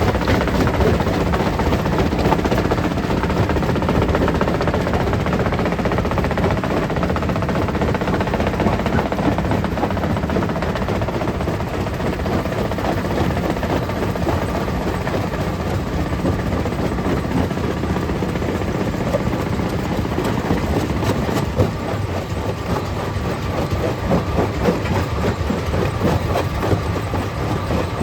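Stone crusher plant running and crushing rock: a continuous heavy mechanical rumble packed with dense clattering knocks of stone. After about twenty seconds the knocks become more separate and uneven.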